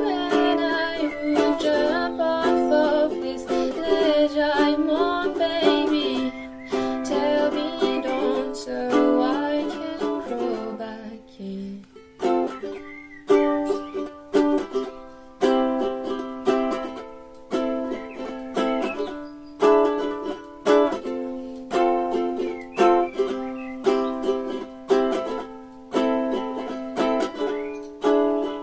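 Ukulele playing an instrumental passage of plucked chords. After a short pause about twelve seconds in, the chords are struck in a steady, even rhythm.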